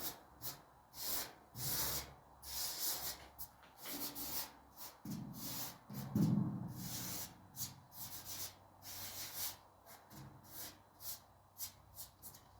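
A long run of irregular rubbing or brushing strokes, short scrubs of uneven length, with a couple of heavier, lower scuffs around the middle.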